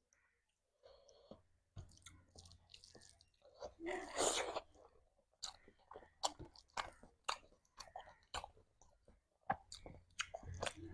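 A person chewing food close to the microphone. There is a louder burst of noise about four seconds in, then short wet mouth clicks come about twice a second.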